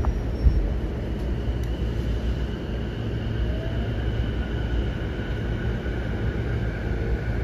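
Running sound inside the passenger car of a JR East E233-7000 series electric commuter train: a steady rumble of wheels on rail, with a faint traction-motor whine that rises slowly in pitch as the train picks up speed. Two sharp knocks come in the first half-second.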